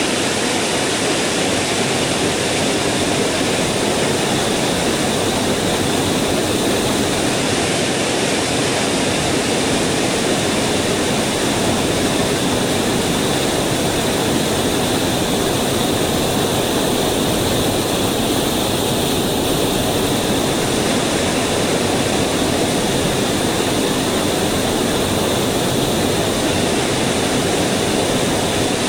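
Mountain headwater stream running over its bed: a loud, steady rush of water with no change.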